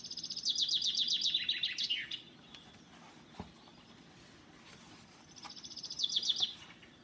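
A bird singing a rapid, high trill twice: a longer run of about two seconds at the start that falls a little in pitch, and a shorter one near the end.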